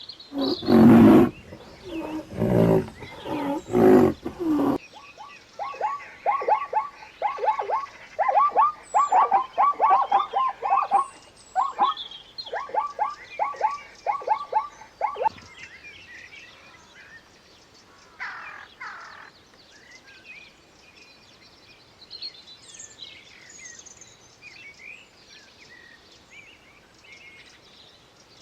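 Animal calls: a few loud, deep roar-like calls, then a long run of short, quick, falling calls repeated several times a second, then faint scattered bird chirps.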